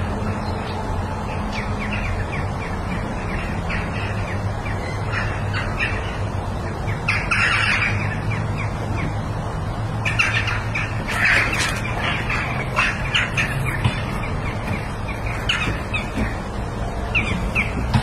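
Birds calling outside with many short squawks and chirps, busiest in clusters around the middle, over a steady low hum.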